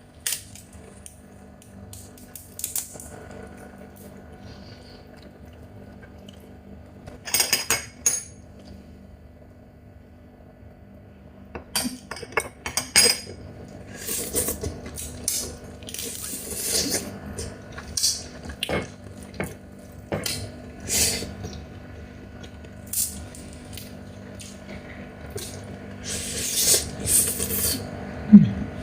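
Eating a Chinese mitten crab: irregular clinks, clicks and crackles of utensils, dishes and crab shell, sparse at first and busier from about twelve seconds in. Near the end comes a short low sound falling in pitch, the loudest moment.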